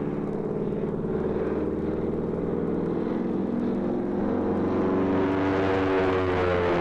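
Aerobatic Stearman biplane's 450-horsepower engine running in flight, growing louder about four seconds in.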